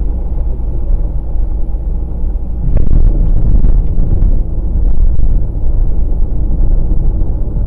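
Low rumble of road and tyre noise inside the cabin of a 2020 Volkswagen Passat Variant 1.6 TDI driving on a wet road, growing louder about two and a half seconds in.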